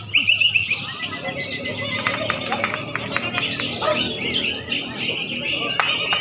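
Many caged songbirds singing at once at a bird-song contest: a dense, overlapping chorus of chirps and trills, with a run of sharp clicks about two seconds in.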